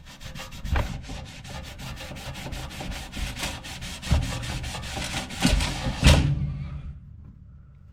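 Hand scrubbing of baked-on grease inside a toaster oven: rapid back-and-forth rubbing strokes, several a second, stopping about six seconds in.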